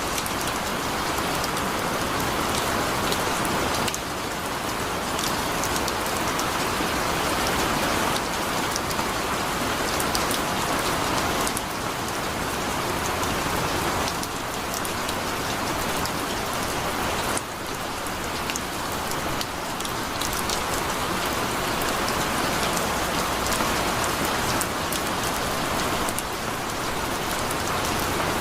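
Heavy rain falling steadily, a dense hiss with fine drop patter.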